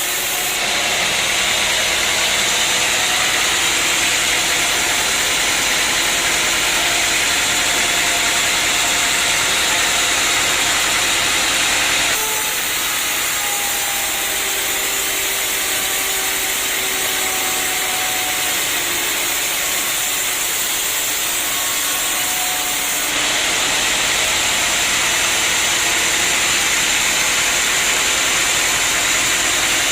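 Sawmill machinery running with a steady, loud, hissing noise over an engine-like drone. The sound changes abruptly about twelve seconds in and again about twenty-three seconds in, with faint, slightly falling whines in the middle stretch.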